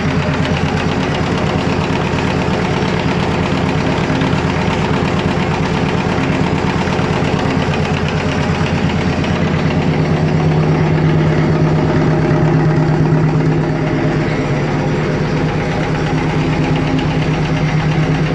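AVZ-180 rotary-plunger vacuum pump running steadily on a test stand with an even, rhythmic pulsing beat. The pump is still damp inside and its oil not yet degassed, so it is not yet pulling full vacuum.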